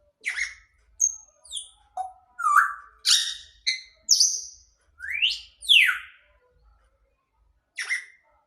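Grey parrot whistling and chirping: a quick string of short whistles and chirps, then a rising whistle followed straight away by a falling one about five seconds in, and one last short chirp near the end.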